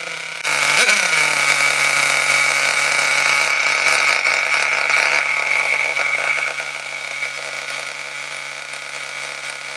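Nitro RC car's small glow-fuel engine running just after starting: a rev blip about a second in that falls back, then a steady fast idle with a high-pitched buzzing rasp.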